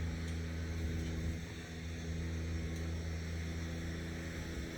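An engine running steadily at a constant low speed: a low, even hum.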